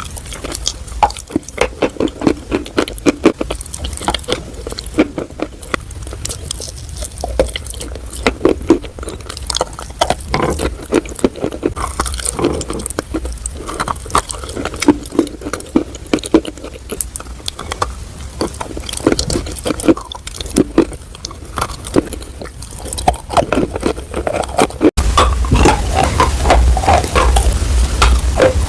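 Close-miked chewing of edible chalk: a rapid, uneven run of crisp crunches. Near the end it changes abruptly to a denser, steadier stretch of chewing.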